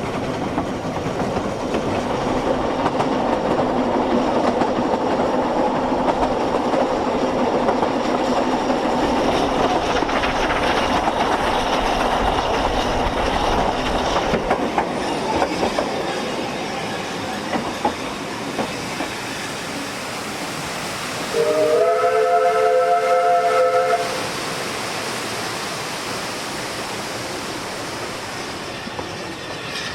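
A narrow-gauge Ffestiniog Railway train running along the track, with steady rumbling and clattering that is louder in the first half and eases off later. About two-thirds of the way through, the locomotive's whistle sounds a chord of several notes for about two and a half seconds.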